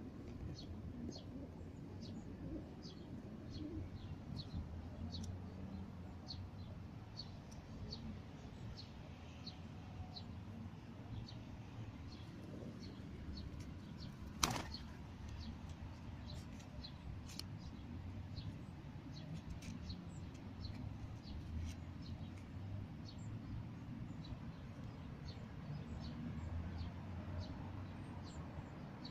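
Small birds at a feeding spot: many brief, high ticks and chirps come irregularly, a few each second, over a low steady rumble. One sharp, louder click comes about halfway through.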